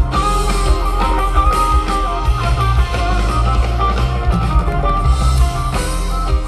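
Live rock band jamming: electric guitar leads over bass and drum kit, loud and continuous.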